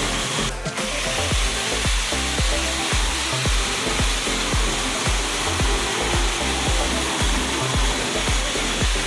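A power tool whirring steadily under background music with a steady beat, with a short break about half a second in.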